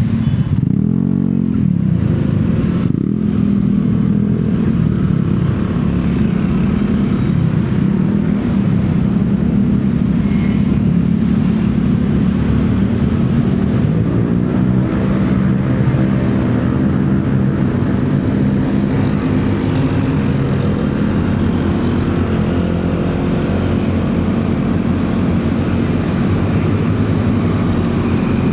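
Motorcycle engine running steadily while riding, mixed with city traffic. The engine's pitch rises and falls about a second in and again around the middle.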